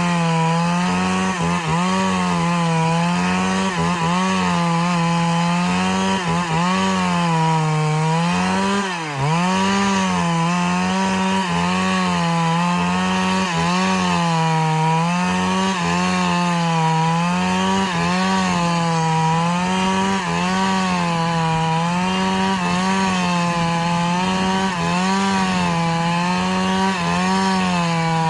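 Two-stroke chainsaw running under load as it cuts through a big log, its pitch wavering up and down every second or two as the bar works through the wood. About nine seconds in it bogs down briefly and recovers.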